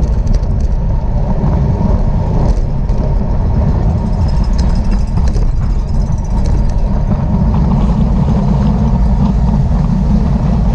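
Steady wind buffeting a microphone moving at speed, a loud low rumble with faint scattered ticks above it.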